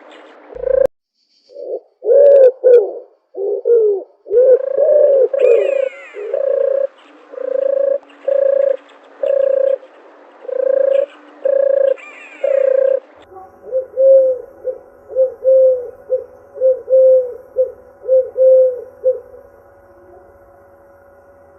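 Doves cooing: a long series of low, repeated coos about once a second, broken by a brief dropout near the start. About thirteen seconds in the recording changes to a steady background hum with quicker, shorter coos, which stop a couple of seconds before the end.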